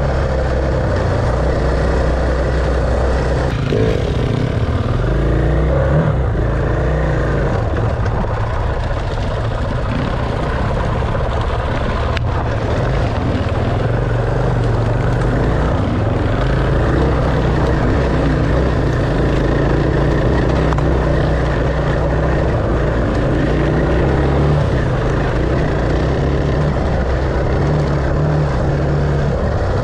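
Enduro dirt bike engine running loudly and continuously, with no break in the noise.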